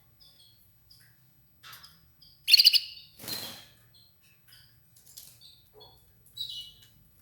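Red ivory canary giving short, high chirps and call notes at irregular intervals, with one louder call about two and a half seconds in, followed by a brief rustle or flutter.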